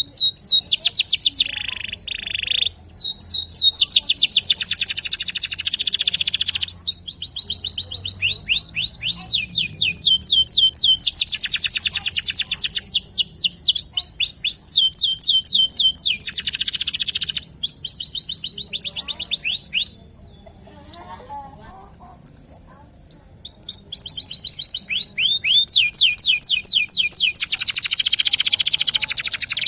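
Domestic canary (local Indonesian canary) singing long, fast rolling trills of rapidly repeated high sweeping notes, breaking off for about three seconds about two-thirds of the way through before resuming.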